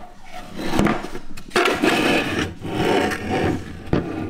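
Scraping and rubbing of the HART 2-gallon wet/dry vacuum's parts being handled, in three or four stretches of about a second each.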